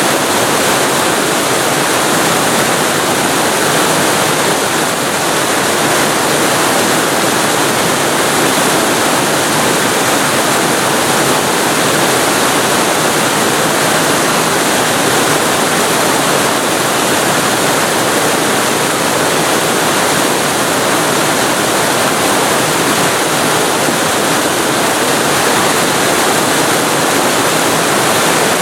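Waterfall recorded very close to the falling water: a loud, steady, even rush with no changes.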